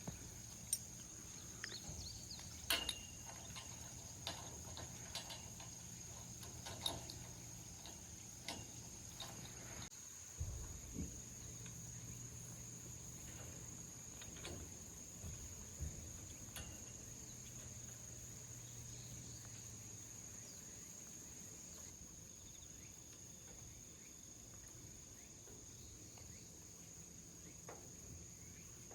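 Insects chirring in a steady high-pitched band, with scattered light clicks and knocks over it, most of them in the first ten seconds or so.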